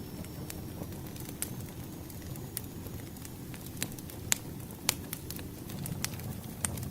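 Wood fire crackling: irregular sharp pops and snaps over a low, steady rumble of burning logs, with two louder pops a little past the middle.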